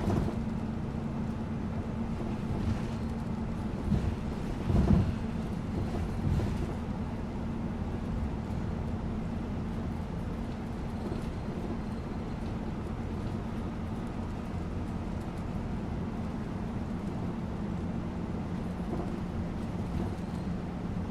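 A bus riding along with a steady engine and road rumble under a constant low hum. A few brief thumps stand out about four to six seconds in.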